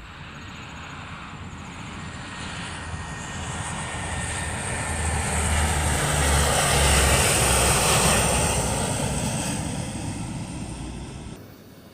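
A heavy truck's engine and tyres going past, building steadily to a peak about seven or eight seconds in, then fading, and cutting off suddenly near the end.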